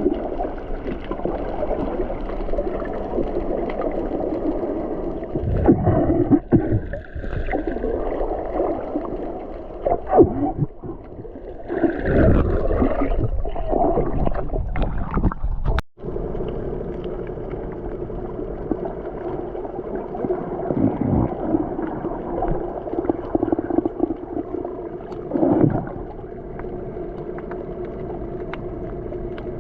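Steady rumble and rush of a boat underway on open water, with louder uneven surges in the middle and a sudden break about sixteen seconds in.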